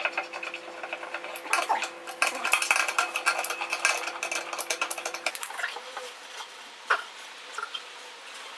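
Rapid small clicks and clinks of hard objects being handled, with a faint steady hum under them that stops about five seconds in.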